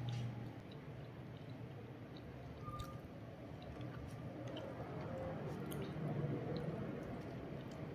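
Close-up eating sounds: wet chewing of a mouthful of nasi padang rice, with small scattered mouth clicks and fingers squishing into the rice on its wrapper.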